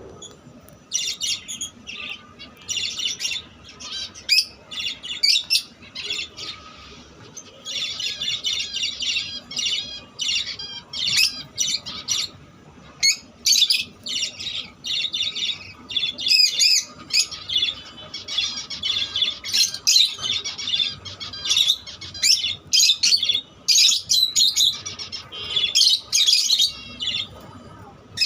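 Peach-faced lovebirds chirping and calling: short, sharp, high-pitched chirps in quick runs, almost without pause.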